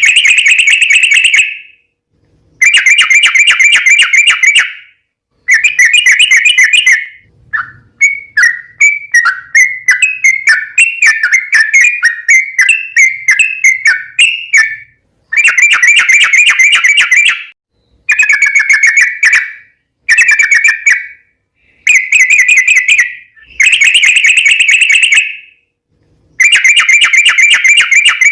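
Yellow-vented bulbul (trucukan) singing in loud bursts of rapid, chattering notes, each bout lasting one to two seconds with short pauses between. One longer, more varied run of notes comes from about 8 to 15 seconds in.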